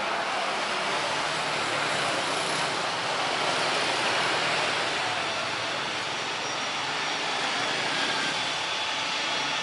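Jet airliner engines running, a steady rushing noise with no clear pitch.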